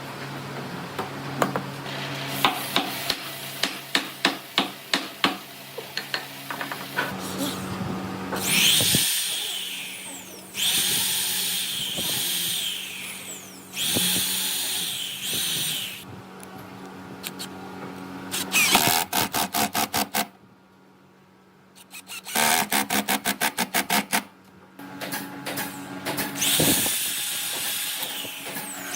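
Woodworking power tools used in short bursts: a series of sharp taps, stretches of high-pitched whirring, and two quick runs of rapid clattering pulses with a brief pause between them.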